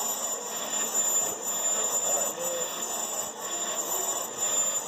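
Bench brake lathe running and cutting, with a steady high-pitched whine over even mechanical noise, as it takes another pass off a warped brake part.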